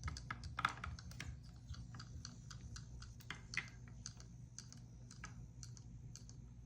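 Kittens playing with a toy fish: a run of irregular light clicks and taps, louder about half a second in and again about three and a half seconds in, over a low steady hum.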